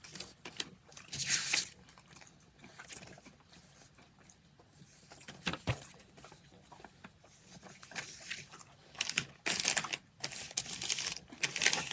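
Snack wrappers and packaging crinkling and tearing in short bursts, with a single sharp click a little past halfway.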